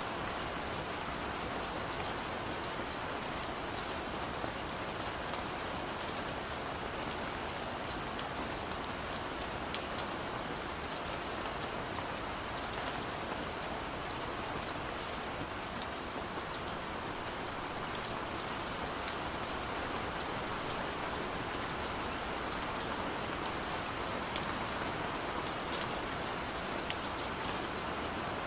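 Steady gentle rain: an even hiss of falling rain with scattered sharp drop ticks.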